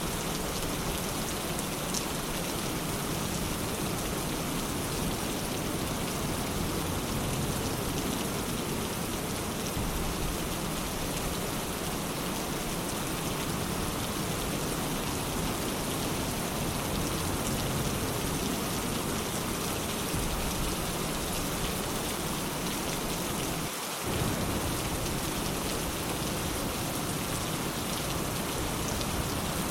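Steady rain falling as an even, unbroken hiss. The sound dips briefly about 24 seconds in, then carries on as before.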